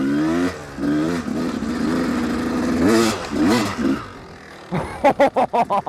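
1993 Yamaha YZ250's single-cylinder two-stroke engine revving hard under load on a hill climb, its pitch climbing and dropping several times. Near the end the power falls off, then comes back in a quick series of short throttle bursts.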